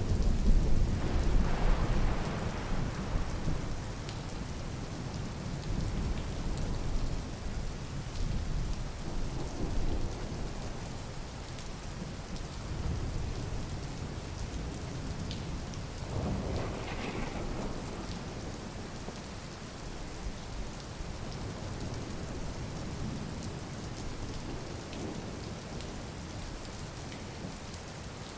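Steady rain falling, with a roll of thunder at the start that rumbles away over several seconds.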